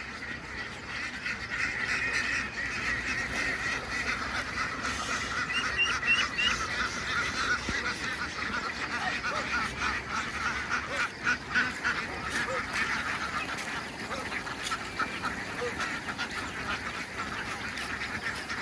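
A large flock of domestic ducks calling all at once, many short quacks overlapping into a continuous chatter.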